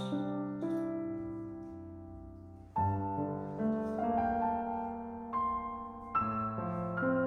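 Slow, soft background piano music: chords struck every second or two and left to fade.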